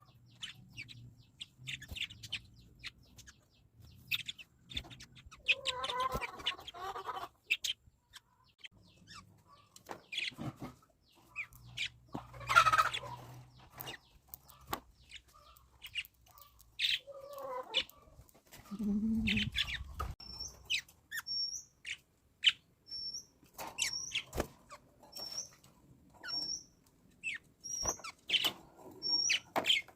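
Small pet parrots kept as love birds, chirping and squawking in short, scattered calls. In the second half one high, short chirp repeats about once a second.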